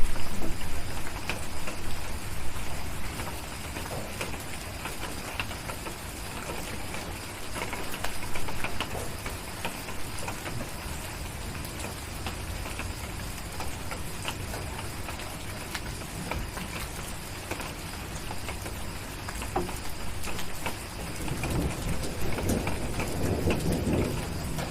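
Steady rain falling, with a rumble of thunder fading away at the start and another rolling in near the end.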